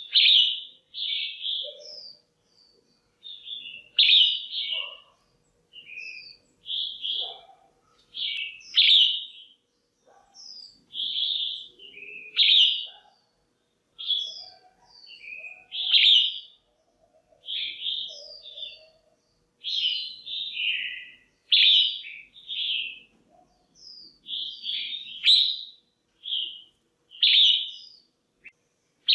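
Female red-whiskered bulbul calling: short, chirpy bursts of notes repeated about once a second, with brief pauses between them.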